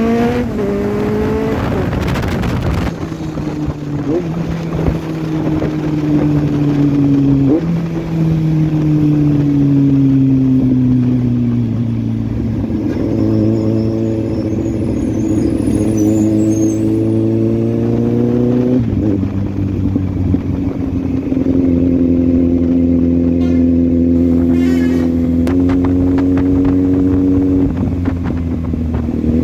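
Kawasaki Z800's 806 cc inline-four with an Akrapovic exhaust, heard from the saddle while riding: the engine note climbs and falls with the throttle, with several sudden pitch steps at gear changes, and holds steady at a cruise for long stretches, over wind and road noise.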